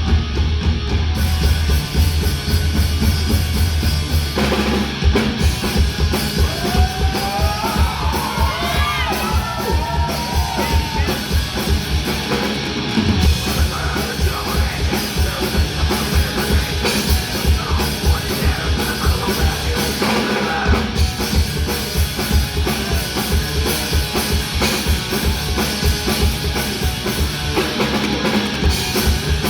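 Live crossover thrash/hardcore punk band playing: distorted electric guitar, bass and drum kit. Opening with held low chords, then the drums come in fast and hard about five seconds in.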